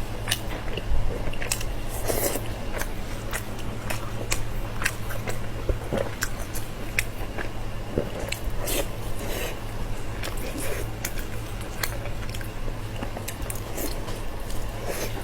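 Close-miked mukbang eating: repeated bites and chewing with crisp, irregular crunches and clicks.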